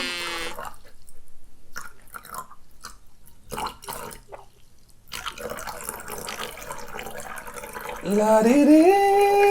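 A man urinating into a toilet bowl: a few scattered splashes and drips at first, then a steadier trickle from about five seconds in. Near the end a man sings a rising 'la-di-dee' over it.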